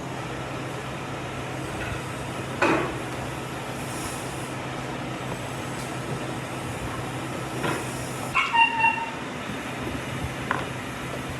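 A steady machine hum. A sharp knock comes about two and a half seconds in, and a few short squeaks follow near the end.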